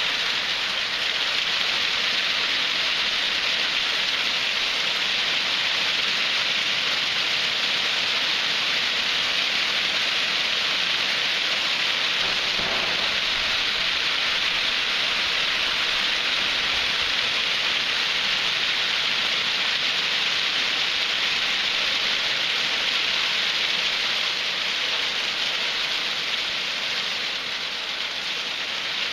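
Hail falling heavily: a dense, steady hiss of hailstones striking surfaces, easing a little near the end.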